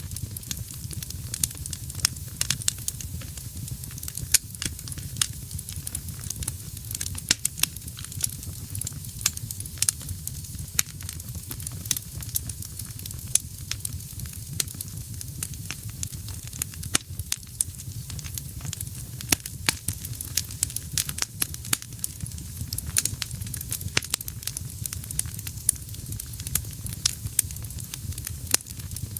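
Wood fire burning in a fireplace, crackling with frequent irregular sharp pops over a steady low rumble of flame and a soft hiss.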